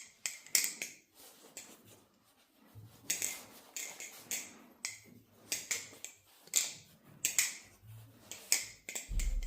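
A Kraken balisong trainer being flipped, its handles clacking together and against the pivots in sharp, irregular clicks about one or two a second. It has weight inserts fitted to balance it.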